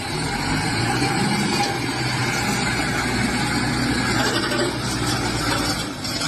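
A motor vehicle's engine running steadily with a low drone. It starts abruptly and dips briefly near the end.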